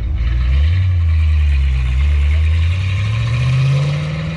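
A car engine running loud and low, then rising steadily in pitch from about two and a half seconds in as it accelerates.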